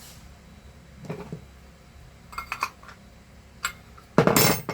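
A metal wrench working the nut on a handheld vacuum cleaner's motor: a few light, ringing metal clinks, then a louder clatter near the end.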